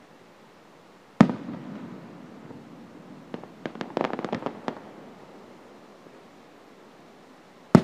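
Aerial firework shells bursting: a sharp bang about a second in with a rumbling echo after it, a quick run of sharp crackling pops around four seconds in, and another bang near the end.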